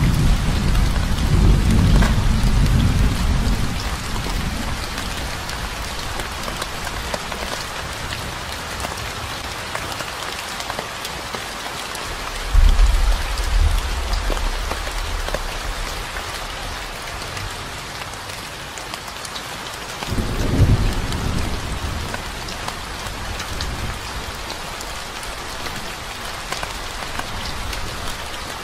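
Steady rain falling, with fine drop ticks throughout. Low rumbles of thunder fade out over the first few seconds, break in suddenly about twelve seconds in and come again about twenty seconds in.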